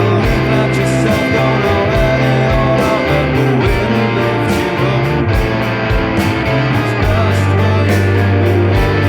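A rock band playing live: electric guitar over a held bass line, with a steady drum beat.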